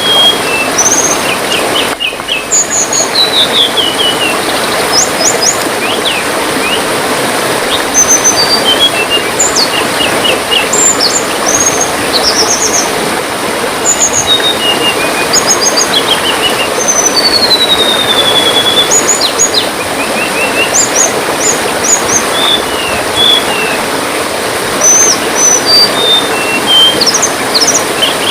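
Small tledean songbirds calling in quick high chirps, short whistled notes and brief trills, over the steady splashing of trickling water.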